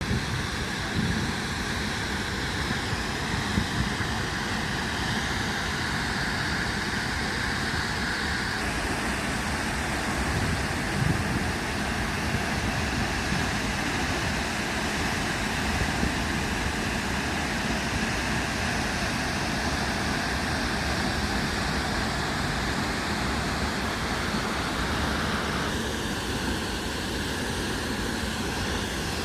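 Steady rushing roar of the Blue Nile Falls, a large waterfall, with its tone changing abruptly twice, about a third of the way in and near the end.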